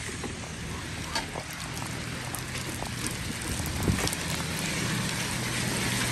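Heavy rain hissing steadily on pavement and cars, with scattered drips and splashes; it grows louder in the second half. A low, steady engine hum runs underneath.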